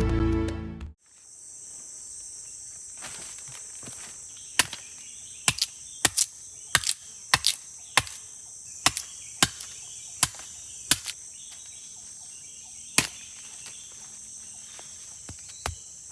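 Steady high-pitched chorus of forest insects such as crickets, after background music cuts off about a second in. From about four seconds in, sharp knocks come irregularly, every half second to a second, with a pause near the end.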